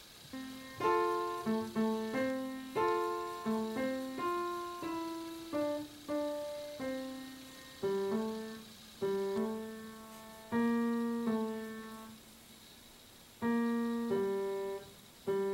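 Background piano music: a slow, gentle melody of single notes and soft chords, each note dying away, with short pauses between phrases.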